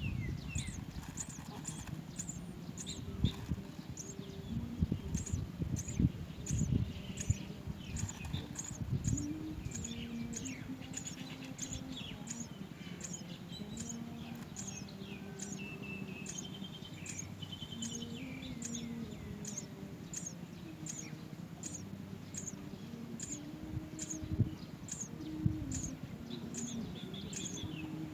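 Small birds chirping: a short high chirp repeating about twice a second throughout, with other twittering calls among it and a few dull knocks.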